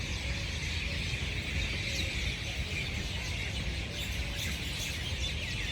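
Many small birds chirping and twittering together, a dense, continuous chorus of short high calls over a steady low rumble.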